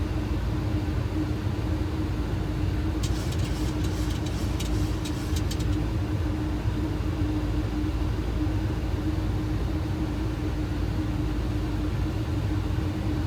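Boeing 737 flight deck noise on final approach with gear down and flaps extended: a steady rush of airflow and engine noise with a constant hum, and a few faint crackles between about three and six seconds in.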